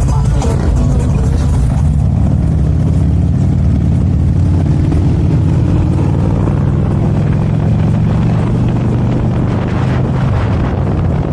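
Motorcycle engine running steadily with a low drone, its pitch drifting slightly up and down.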